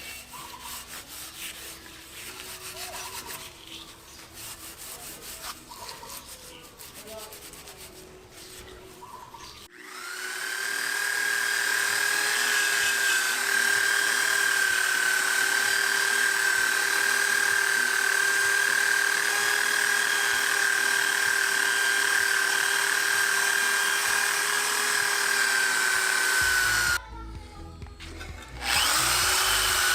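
Irregular scraping and rubbing on metal, then a handheld power tool spins up about ten seconds in and runs steadily with a high whine. It stops for a couple of seconds near the end and starts again. The tool is stripping old paint and rust from a steel motorcycle frame.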